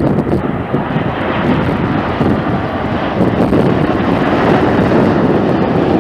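Jet airliner's engines rumbling loud and steady as the plane passes close by, with wind buffeting the microphone.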